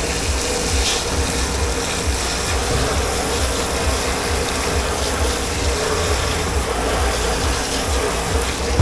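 Steady running noise of dish-pit machinery with a low rumble and a faint hum.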